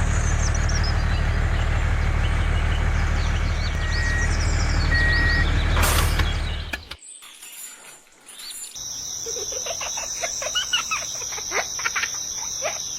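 A loud, steady engine-like rumble with two short beeps over it, stopping about seven seconds in; after a brief pause, insects keep up a steady high drone while birds chirp.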